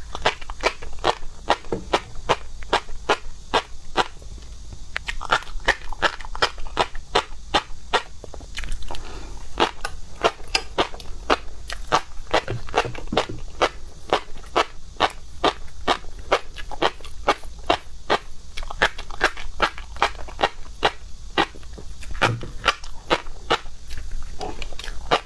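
Close-miked chewing of crunchy seafood: a steady run of sharp crunching clicks, about two or three a second.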